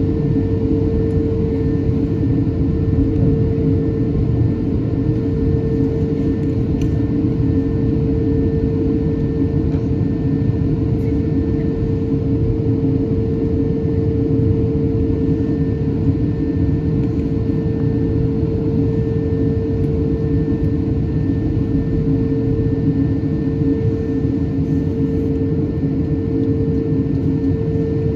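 Steady rumble inside the cabin of an Airbus A220-300 airliner, with a steady hum made of a couple of held tones and no change in pitch or level.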